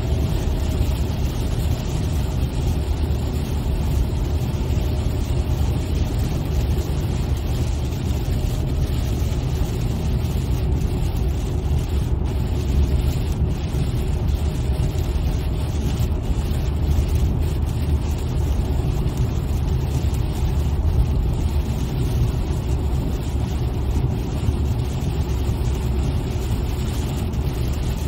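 Steady road and engine noise inside a moving car, a low rumble that holds even throughout.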